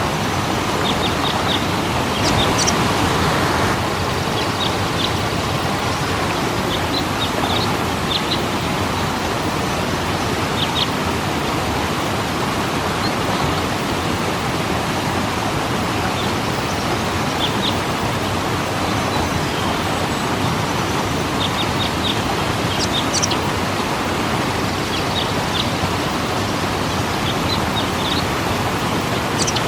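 Waterfall: water falling and splashing in a steady, even rush. Short high bird chirps come through it every few seconds.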